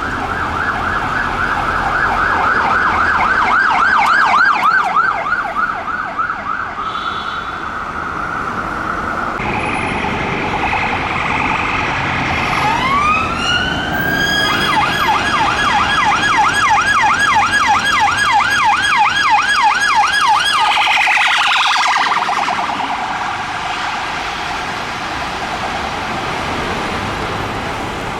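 Emergency vehicle sirens passing through traffic. A fast-sweeping yelp runs for about nine seconds, then a steady high tone. A second siren winds up in a rising sweep and yelps rapidly until it cuts off about 21 seconds in, leaving road traffic noise.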